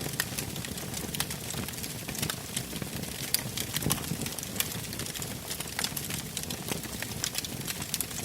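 Wood campfire burning, with frequent irregular crackles and pops from the firewood.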